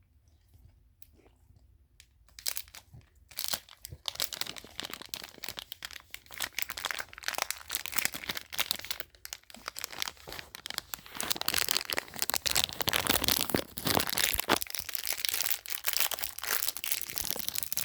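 Plastic dog-treat bag being crinkled and torn open: a dense crackle of small snaps that starts about two seconds in and grows louder.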